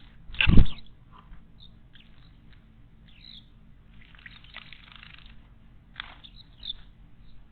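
Wild birds calling with short high chirps and a few harsher, noisier calls, and one loud thump about half a second in.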